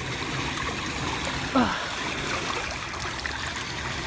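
Floodwater rushing steadily like a small stream into a drain just cleared of debris. A brief sound falling in pitch cuts in about a second and a half in.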